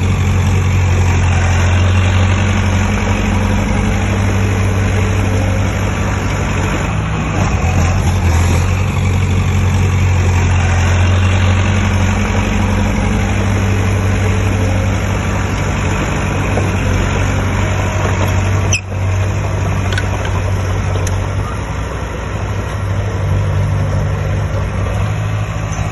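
Heavy construction machine's diesel engine running steadily with a deep, even hum that eases and swells slightly, broken by a brief sharp drop about three quarters of the way through.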